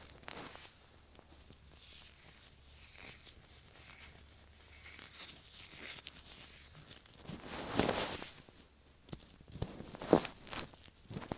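Latex-gloved fingers rubbing and tapping directly on an earphone microphone, giving close, scratchy rubbing with small clicks. The rubbing grows louder about eight seconds in, and a few sharp taps follow.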